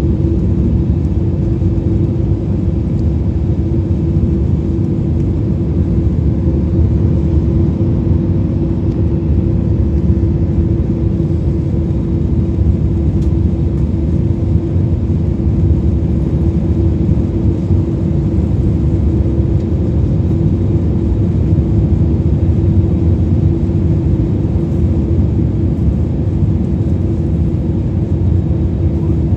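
Steady jet airliner cabin noise: a loud, even rumble of engines and airflow with a constant low hum running through it.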